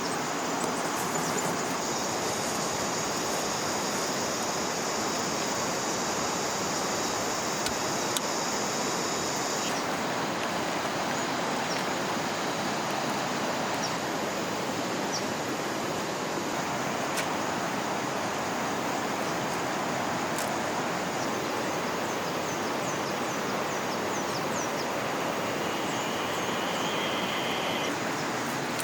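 River water running with a steady, even rushing hiss. A high steady buzz sits over it for about the first ten seconds, and a few short high chirps come near the end.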